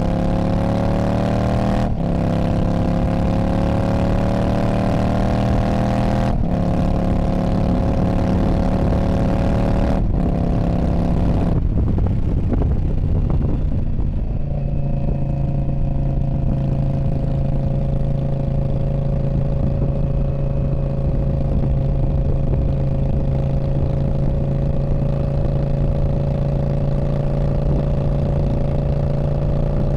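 2019 Indian Scout Bobber's V-twin through a Freedom Performance Radical Radius exhaust, pulling up through the gears. Its pitch climbs three times, with a brief dip at each upshift about two, six and ten seconds in. It then eases off and settles into a steady drone at constant speed.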